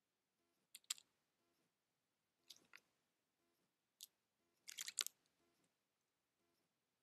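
Faint, sharp pecking clicks of small birds' beaks striking seed and the feeder, in short groups a second or so apart, with a quick run of taps about five seconds in.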